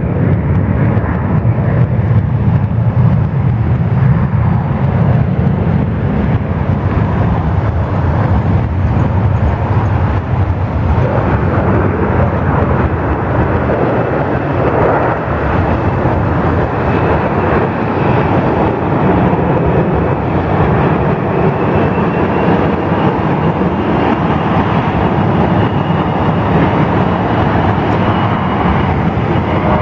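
Airbus A380's four jet engines running at taxi power: a steady, dense engine noise heavy in the low end, with a faint high whine that appears about halfway and slowly rises in pitch.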